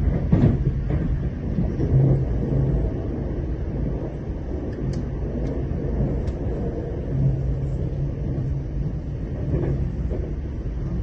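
Inside a moving train: a steady low rumble of the wheels on the track, with a low hum that comes and goes.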